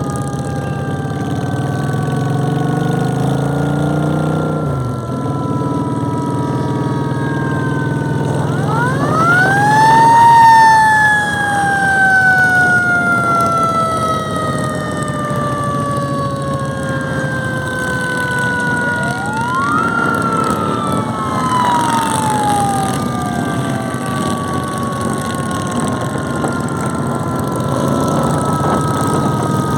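A siren winds up twice: each time it rises quickly, then falls slowly away over many seconds. Underneath is a steady rumble of engines, with one engine revving and dropping back about four seconds in.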